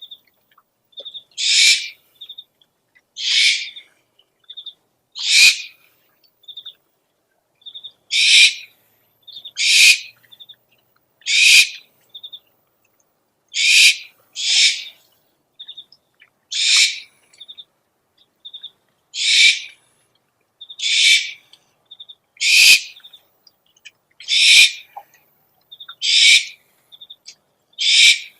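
Owl calls from a lure recording: raspy screeches about half a second long, repeated every one and a half to two seconds, with short high chirps in little groups between them.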